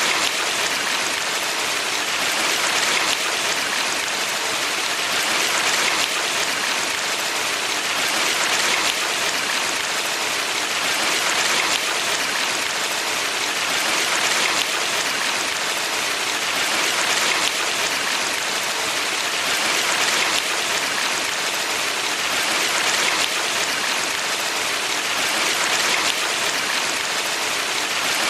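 Steady rushing water of a valley stream: an even hiss that swells gently about every three seconds.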